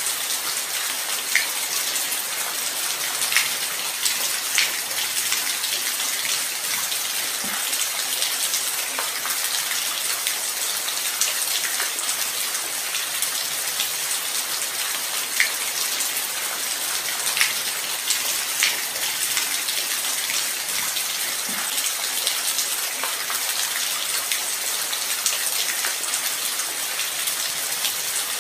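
Light rain falling steadily: an even, fine hiss with single louder drops ticking now and then.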